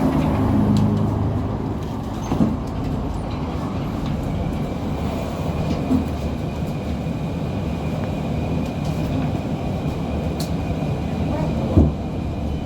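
KTM-23 (71-623-04.01) low-floor tram running along the track, a steady rumble of wheels on rails with a few sharp knocks. A thin, steady high whine comes in about a third of the way through.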